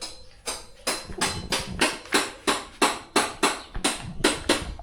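Steady, even knocking, about three sharp strikes a second, from someone working hard and fast with a hand tool.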